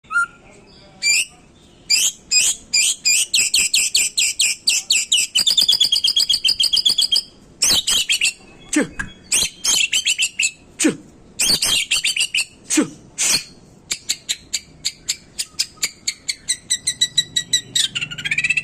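White-rumped shama (murai batu, Medan type) singing a fast, varied song: strings of sharp whistled notes and rapid trills of quickly repeated notes, broken by short pauses, with now and then a low falling note.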